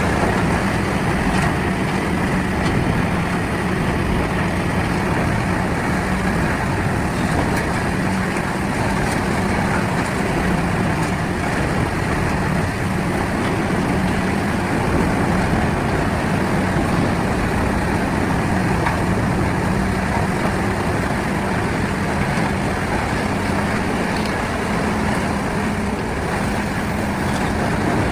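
CBI 6400 CT grinding machine running, a loud steady drone of its diesel engine and rotor as it grinds wood, with a steady low hum under the noise.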